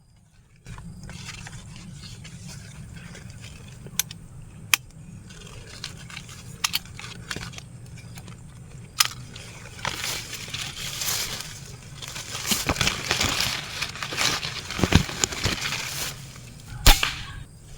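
PCP air rifle firing single shots, about five sharp cracks a few seconds apart, the last the loudest, over a steady rustling background.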